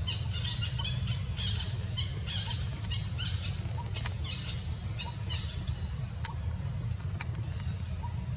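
Small birds chirping in quick runs of short high calls over a steady low rumble, the chirping thinning to a few sharp single notes after about three and a half seconds.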